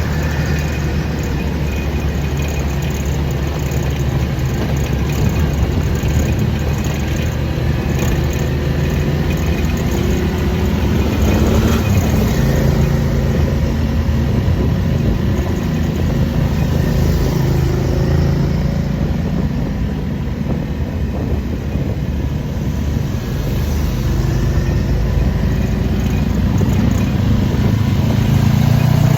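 A motor vehicle engine running on the move, its pitch rising and falling as it speeds up and eases off.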